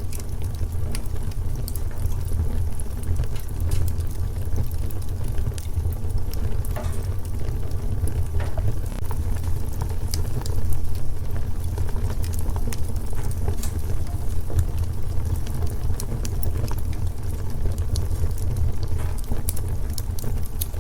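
Wood fire crackling in a fireplace: a steady low rumble of flames under scattered sharp crackles and pops.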